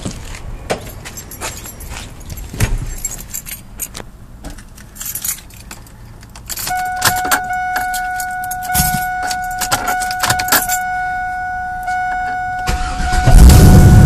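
Keys jangling and rattling as the driver gets into a 2001 Camaro Z28. About two-thirds of the way in a steady electronic tone sounds with the key on. Near the end the LS1 V8 cranks and fires, loud through its Flowtech headers and Y-pipe.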